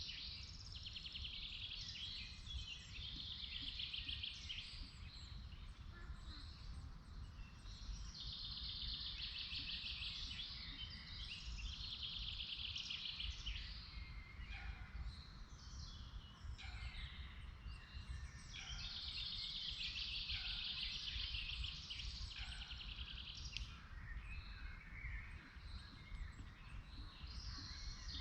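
Forest songbirds singing: one bird repeats a long, fast, high trilled song three times, several seconds apart, while other birds chirp in between, over a steady low rumble.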